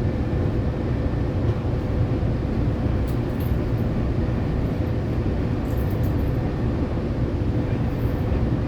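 Steady low rumble of a Rail Runner commuter train in motion, heard from on board, with a faint steady hum over it.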